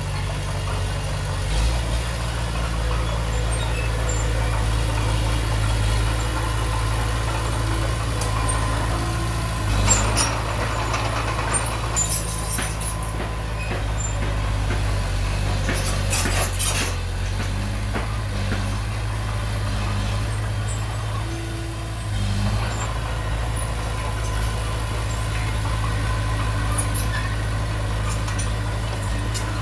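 Heavy machinery's diesel engine running steadily, with brief metallic clanks and squeals breaking in a few times.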